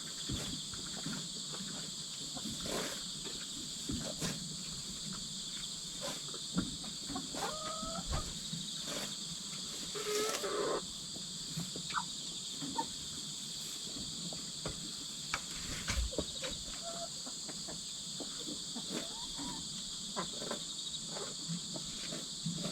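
Insects chirring steadily and high-pitched. Over them come scattered small scratches and clicks from chickens moving about, and a couple of brief soft chicken calls near the middle.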